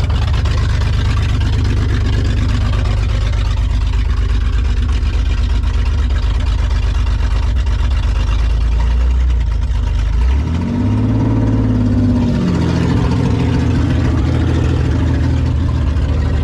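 2001 Oldsmobile Bravada's 4.3-litre V6 running loud with no exhaust, its oil and coolant drained. About ten seconds in it revs up briefly and falls back to idle.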